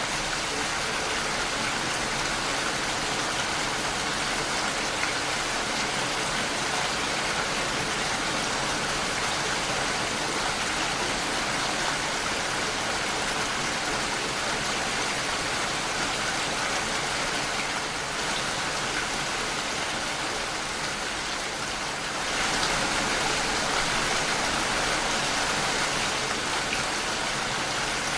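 Steady rain falling against a window pane, an even hiss of drops that grows a little louder about three-quarters of the way in.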